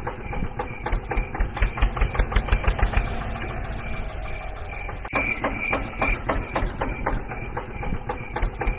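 Tractor engine running with a fast, even knocking beat of about six or seven knocks a second, quieter and steadier in the middle of the stretch.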